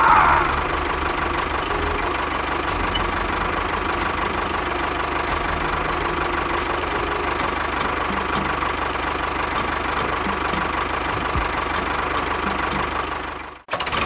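An engine running steadily at idle with a knocking beat. It drops out for an instant near the end, then picks up again.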